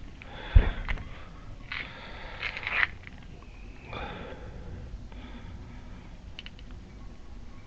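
A single sharp knock about half a second in, then several short breathy sniffs, with a few faint metal clicks from a hook pick working at a hydraulic ram's seals.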